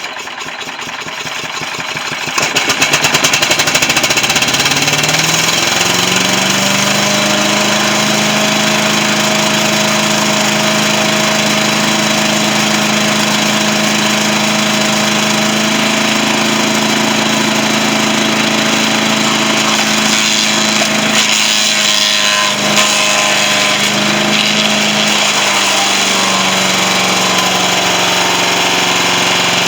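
Tecumseh engine of a vintage Yard-Man SC8 chipper-shredder starting up: fast, even firing at first, then it gets louder about two to three seconds in and its pitch rises and settles into a steady run by about seven seconds. It keeps running steadily, with a brief unevenness a little past twenty seconds.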